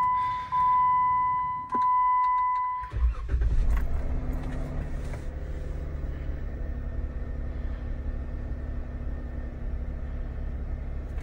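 Jeep Wrangler JK's dashboard warning chime sounding in long repeated tones with the key on, then the V6 engine cranks and catches about three seconds in and settles into a steady fast idle on a cold start.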